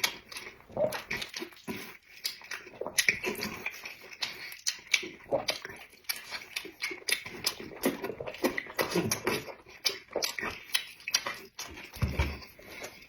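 A person eating close to the microphone: wet chewing and lip smacking in quick, irregular clicks.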